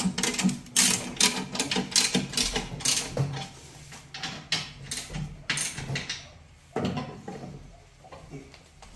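A run of sharp mechanical clicks and knocks, several a second in the first few seconds and more scattered later, like hardware being handled and worked.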